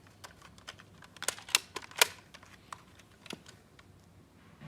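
Irregular plastic clicks and clacks from a Nerf Rival Knockout blaster being handled between shots, with three louder clicks near the middle.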